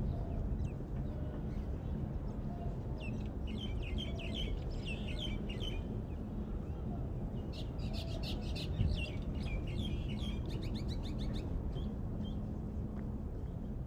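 Small birds chirping in quick, busy clusters, in two bouts about three seconds in and about eight seconds in, over a steady low rumble.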